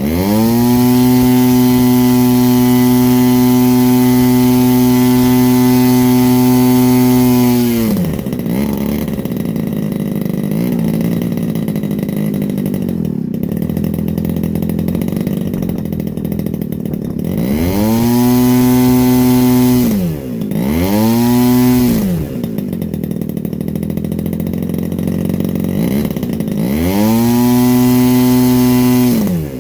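Moki 1.8 single-cylinder two-stroke model airplane engine running on gasoline with spark ignition, swinging a large propeller. It holds full throttle for about eight seconds, drops to a rough idle, and is then revved up and back down three more times, the pitch sweeping up and down with each blip. At full throttle it turns about 7,400–7,500 rpm and runs smoothly.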